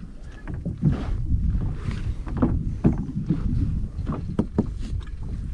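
Scattered knocks and taps on a fishing kayak at an uneven pace, over a steady low rumble of wind on the microphone.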